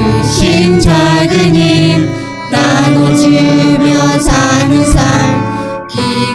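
Church praise music: a Christian gospel song with singing over instrumental accompaniment, phrase after phrase, with brief dips between phrases about two and a half seconds in and again near the end.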